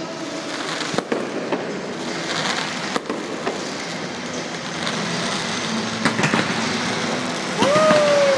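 Aerial fireworks display going off: sharp bangs about a second in, around three seconds in and again about six seconds in, over a steady noisy background. Near the end a loud high-pitched call rises and then falls.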